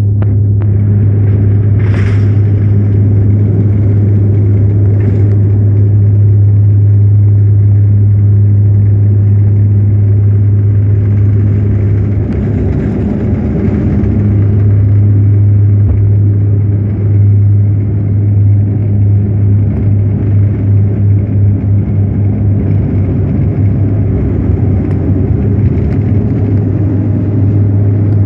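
Loud, steady engine drone and rumble of an airliner at takeoff, heard from inside the cabin, with a strong low hum throughout. A brief knock comes about two seconds in, and the level wavers in the second half.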